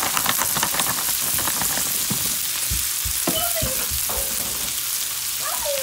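Frozen chopped spinach sizzling and crackling in hot oil in a pot, the crackles thickest in the first second. There are a few low knocks, like a spoon against the pot, about two to three seconds in.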